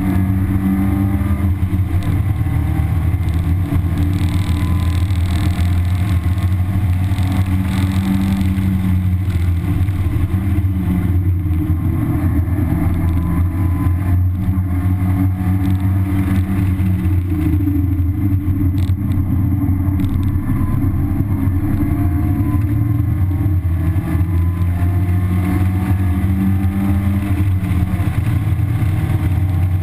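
1991 Mazda Miata's 1.6-litre four-cylinder engine with stock exhaust, running hard on a race track as heard from inside the cabin, its pitch rising and falling with throttle and gear changes, over road and wind noise.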